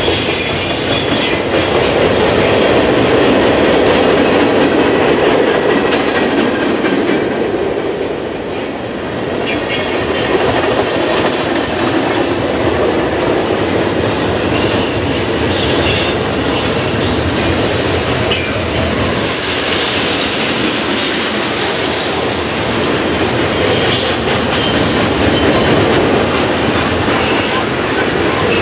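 Freight train cars rolling steadily past close by: a continuous rumble of steel wheels on rail, with high-pitched wheel squeal coming and going.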